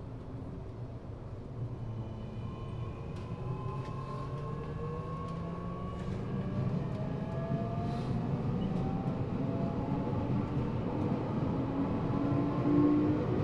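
Tokyo Metro (Eidan) 6000-series subway car with its high-pitched Mitsubishi three-level VVVF inverter, originally from the 7000 series, heard from inside the car. The inverter and motor whine rises in pitch as the train picks up speed. Under it, the wheel-on-rail rumble grows steadily louder, with a few faint clicks.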